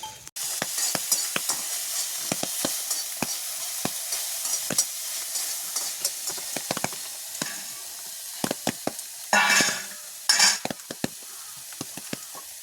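Food frying and sizzling in a pan, with crackling and the clicks of a utensil stirring. There are two louder hissing surges about three-quarters of the way through.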